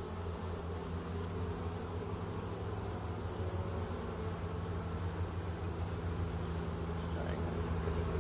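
Many honey bees from an opened hive buzzing in a steady, low hum.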